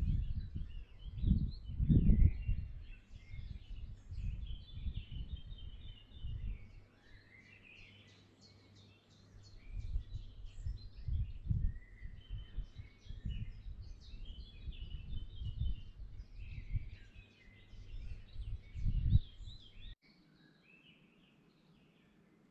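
Birds chirping and singing, with repeated uneven low rumbles underneath that are loudest about two seconds in and just before the end. The rumbles stop abruptly shortly before the end, leaving faint birdsong.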